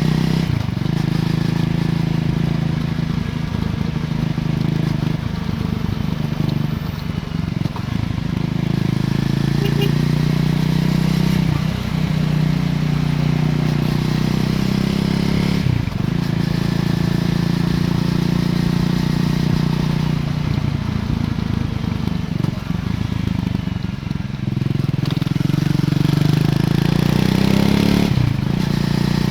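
Triumph Scrambler 400 X's single-cylinder engine running through its stock exhaust under way. The note holds steady, then breaks and dips briefly about four times, as at gear changes or throttle lifts.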